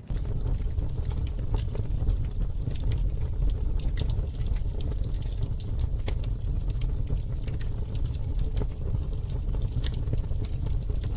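Campfire burning, with irregular sharp crackles and pops from the burning wood over a steady low rumble. The sound jumps louder suddenly at the very start.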